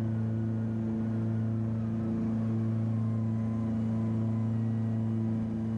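Cessna 421B's twin piston engines and propellers running steadily in flight, a constant deep drone with a strong, even hum.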